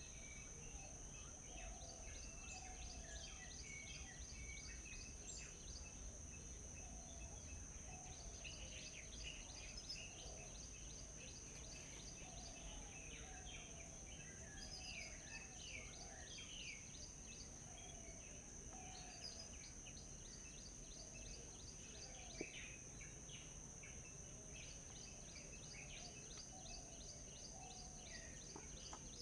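Several small songbirds chirping and twittering, in quick runs of short notes and single chirps throughout, with softer lower calls beneath them. A steady high-pitched drone runs behind them.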